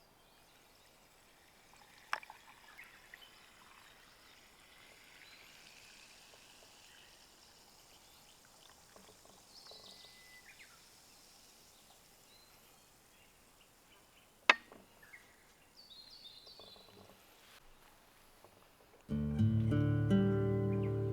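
Faint camp handling sounds with two sharp clicks, the second the louder, then acoustic guitar music starts near the end.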